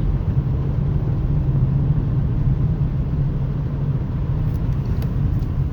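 Steady low rumble of a car's engine and tyres while it is being driven, with a few faint clicks near the end.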